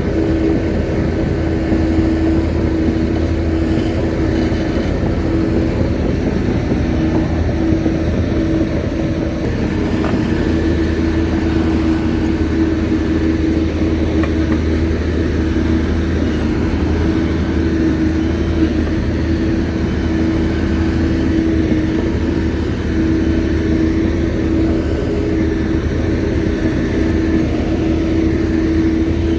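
Shantui crawler bulldozer's diesel engine running steadily, with a constant hum over a low rumble.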